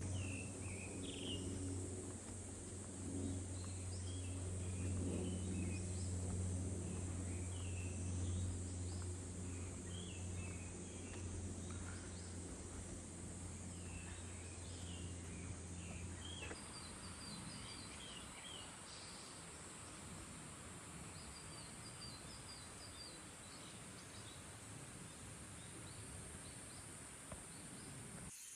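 Outdoor forest ambience: scattered bird chirps over a steady high-pitched insect drone. A low steady hum underneath cuts off about halfway through.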